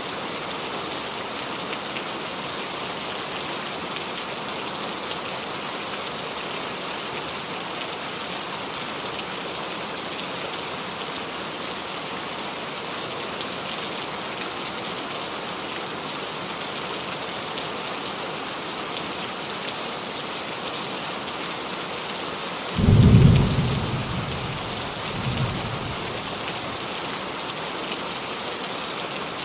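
Steady rain falling on a roof. A sudden low clap of thunder comes about 23 seconds in, followed two seconds later by a smaller rumble.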